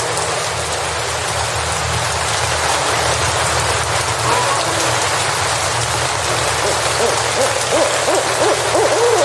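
Steady rain and white-noise hiss in a forest, with a few short, arching low calls from an animal, mostly in the later part.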